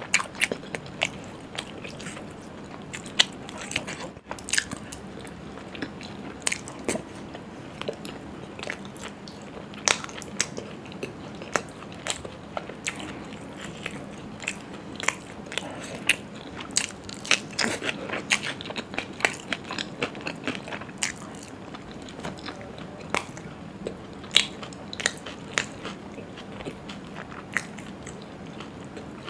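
Close-miked eating sounds: a person biting and chewing mouthfuls of food, with frequent irregular sharp crunchy clicks and wet mouth noises.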